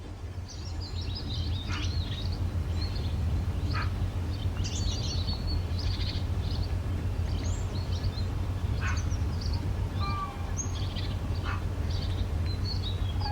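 Songbirds chirping and calling, many short calls overlapping throughout, with a few held whistled notes about ten seconds in, over a steady low rumble.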